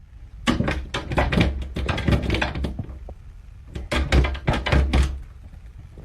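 A rapid run of thuds and knocks in two bursts, the first about two seconds long and the second about a second long.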